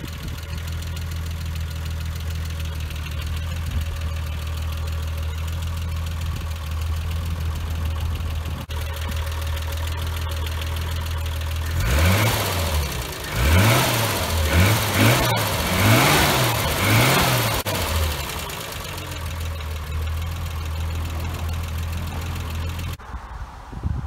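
The 1971 Triumph GT6 Mk3's two-litre straight-six idling steadily. About halfway through it is revved quickly about five times by hand at the carburettor throttle linkage, each rev rising and falling back, then it settles to idle again. Near the end it cuts to much quieter sound.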